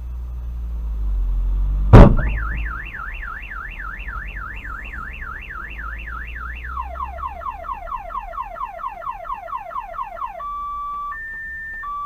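Vehicle rumble builds, then a single loud crash about two seconds in. A car alarm then sets off and cycles through its tones: a rapid up-and-down wail, then fast falling chirps, then two steady tones alternating near the end.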